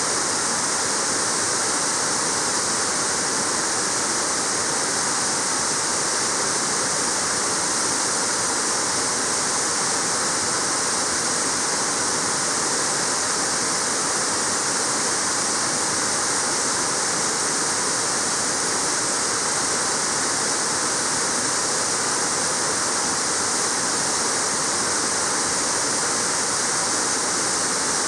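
Waterfall: water falling and splashing onto rock without a break, a steady hiss-like rush with no single events standing out.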